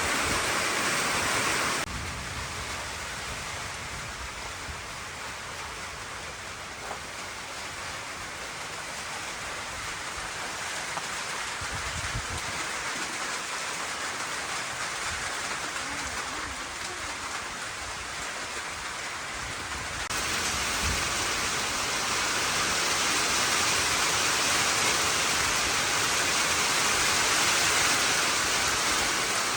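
Steady rain falling, an even hiss that drops in level about two seconds in and grows louder again about two-thirds of the way through.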